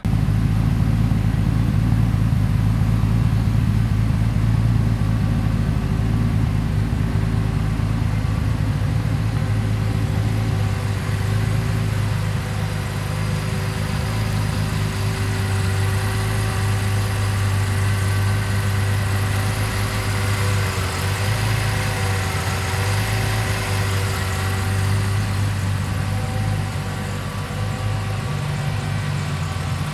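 Turbocharged BMW M50 inline-six running at a steady idle while it is first being tuned.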